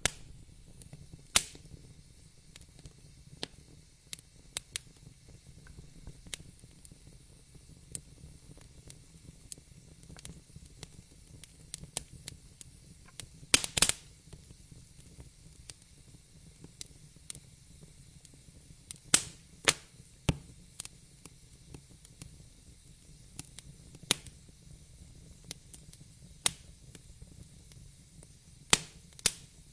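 Wood fire burning in a fireplace: irregular sharp crackles and pops over a low steady rumble of the flames, with a cluster of louder pops about halfway through.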